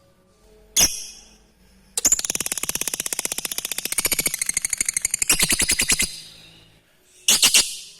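Lovebird calling: one short shrill call, then a long rapid chattering trill lasting about four seconds at roughly a dozen notes a second, the drawn-out 'ngekek' song, and another short call near the end.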